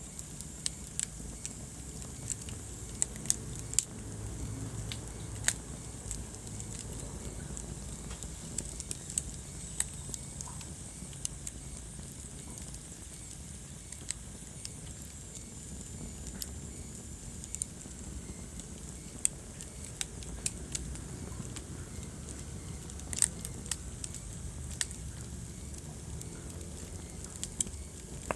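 Wood fire crackling: a steady low rumble of the flames with sharp, irregular pops and snaps from the burning logs.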